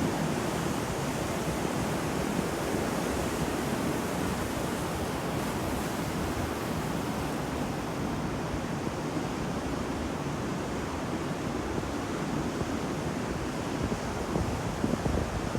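Sea waves breaking and washing onto a shore, a steady rushing surf with some wind noise on the microphone.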